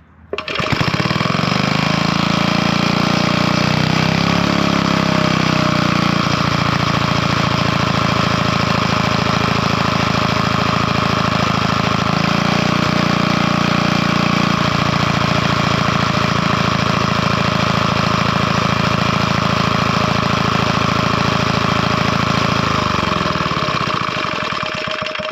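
Villiers Mark 9 stationary engine catching about half a second in and running very fast on full choke, its note shifting a few times, then running down and stopping near the end.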